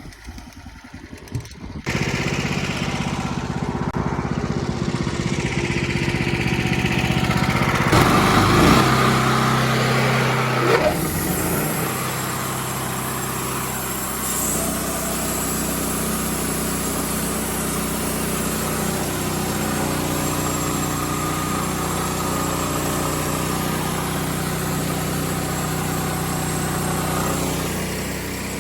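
An engine running steadily, coming in suddenly about two seconds in. It gets louder and rougher, with a shifting pitch, from about eight to eleven seconds in, then settles back to an even run.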